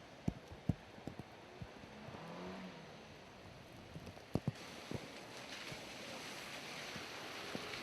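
Rain falling steadily, with scattered sharp taps of drops striking a hard surface close by.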